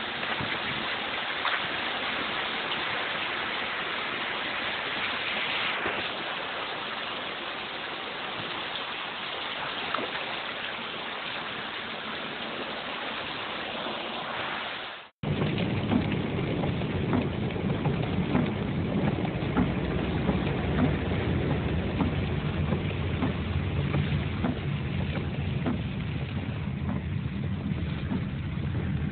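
Steady hiss of heavy rain. After a sudden cut about halfway, the sound changes to a Ford Escort's engine running inside the cabin, a low rumble under rain on the car.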